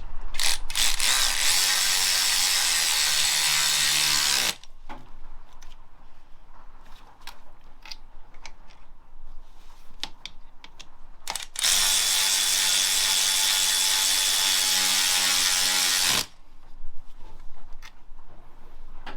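Cordless power tool spinning a socket to run a bolt, in two bursts of about four seconds each, with its motor slowing as it stops. Small tool clicks fall in the pause between the bursts.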